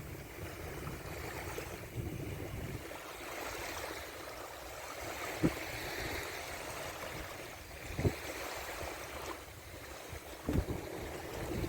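Water rushing and splashing under a windsurf board, with wind rumbling on the microphone. Three sharp knocks come about five and a half, eight and ten and a half seconds in.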